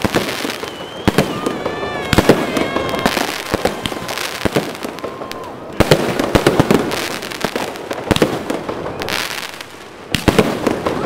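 Fireworks going off: a dense run of overlapping bangs and crackling pops, growing louder about six seconds in.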